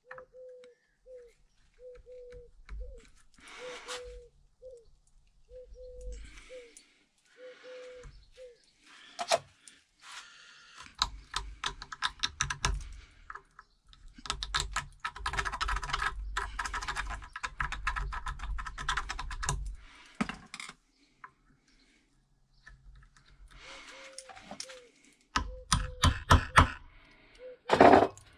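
Ratchet wrench clicking in fast runs and metal tools knocking while working the tight bolts of a motorcycle brake caliper. A faint short chirp repeats about once a second at the start and again near the end.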